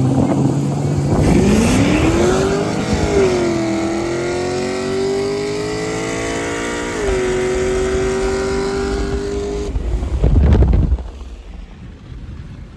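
Car engine at full throttle in a roll race: it holds steady, then revs climb hard from about a second in, with upshifts near three and seven seconds. It pulls on until about ten seconds in, when the driver lifts off with a rush of noise and the engine drops away.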